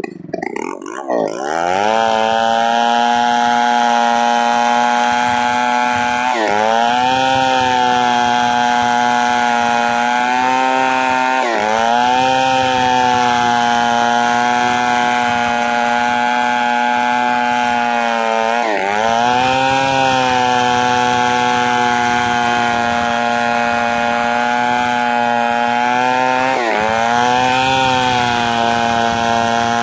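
Chainsaw engine revving up just after the start, then held at high revs while cutting wood. Its pitch sags briefly and recovers four times.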